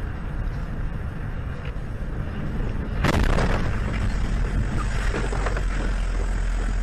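Steady low rumble of a car on the road, with a sudden loud noise about three seconds in, after which the rumble is louder.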